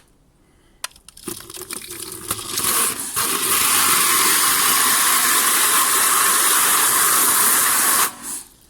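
Kärcher pressure washer spraying water, running the cold water out of the line before the hot water arrives. It starts in sputtering spurts about a second in, settles into a loud steady hiss, then cuts off suddenly near the end.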